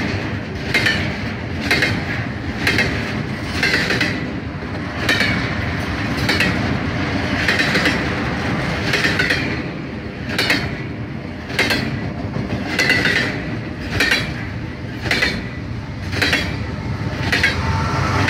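Double-stack intermodal freight train rolling past close by: the well cars' wheels clatter over the rail joints in repeated groups about a second apart, over a steady rumble.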